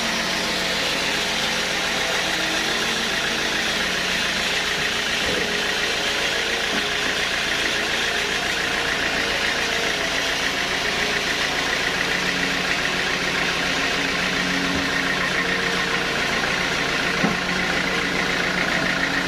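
Sawmill saw machinery running steadily, a motor hum under a high whirring hiss, with one short knock about seventeen seconds in.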